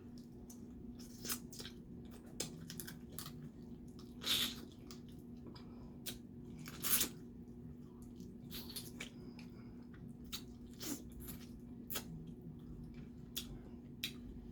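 Cracking and snapping seafood shells, snow crab legs or crawfish, with close-up chewing and sucking: a run of sharp cracks, the two loudest about four and seven seconds in, over a faint steady hum.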